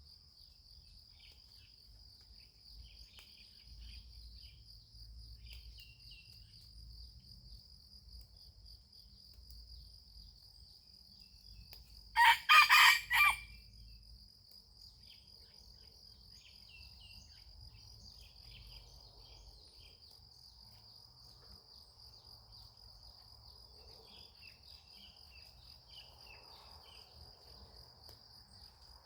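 A rooster crows once, loud and about a second and a half long, starting about twelve seconds in. Under it runs a steady high drone of insects, with scattered faint bird chirps.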